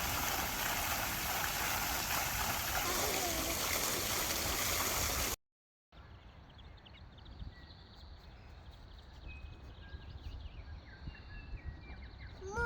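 Rushing river water, a loud steady hiss that cuts off suddenly about five seconds in. After a brief silence comes a much quieter open-air background with small birds chirping.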